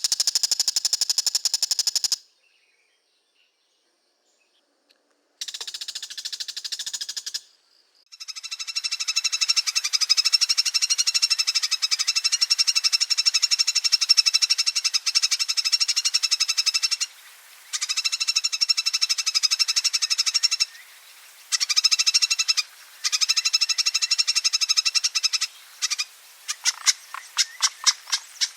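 A bird's long, fast rattling chatter ('ngekek'), given in runs several seconds long that are broken by short pauses. Near the end the rattle slows into separate notes.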